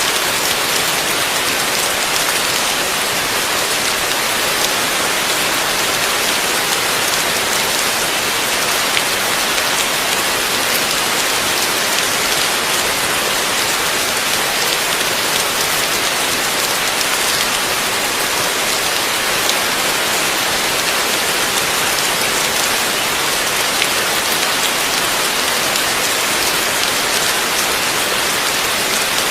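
Heavy rain falling steadily, a dense even hiss with faint patter of drops hitting a surface.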